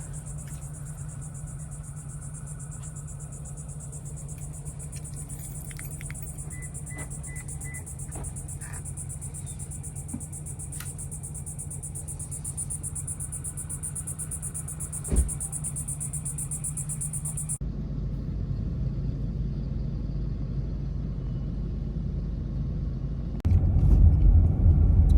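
Steady low rumble like a car in motion, with a high hiss and a few faint clicks. The sound changes abruptly about two-thirds of the way in, and the low rumble grows clearly louder near the end.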